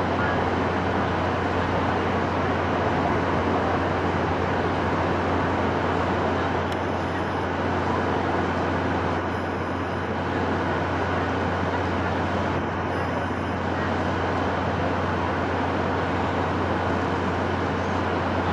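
Steady wind sound: an even rushing noise with a deep low rumble underneath, holding a constant level throughout.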